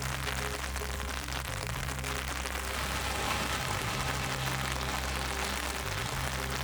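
Heavy rain falling in a steady hiss with a fine patter, over a low steady hum.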